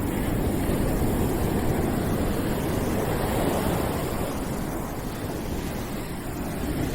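Steady rushing noise played as a calming background, heaviest in the low end, with slow, gentle swells in level and no distinct events.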